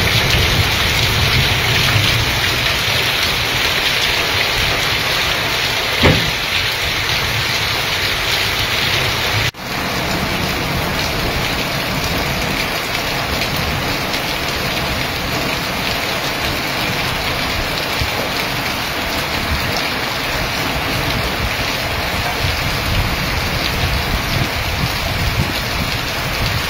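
Heavy rain pouring steadily, splashing into standing water on a paved path. A single sharp knock about six seconds in; after a short break about nine seconds in, the downpour goes on a little less hissy.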